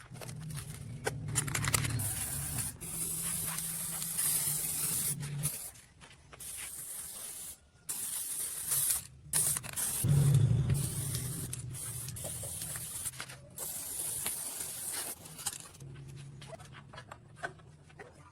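Arc welding on steel: a crackling, sizzling arc in several runs a few seconds long, broken by short pauses, with a low hum under the arc.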